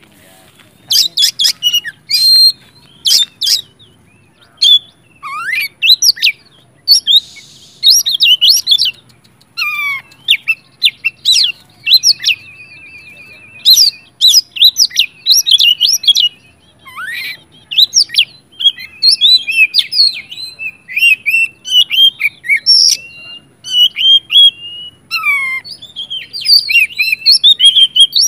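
Oriental magpie-robin (kacer) singing loudly in full, aggressive song: a fast run of varied whistled phrases with sharp downward-sweeping notes and short rattling trills, broken by brief pauses.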